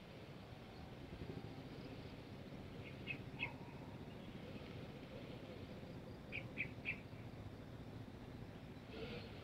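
Faint bird chirps, three short calls about three seconds in and three more near seven seconds, over a low steady rumble.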